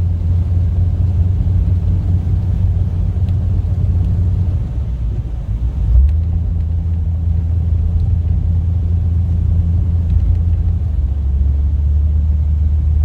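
Lifted 1998 Jeep Cherokee driving through snow, a steady low rumble of engine and drivetrain. It eases slightly about four and a half seconds in, with a brief thump near six seconds, then runs steady again.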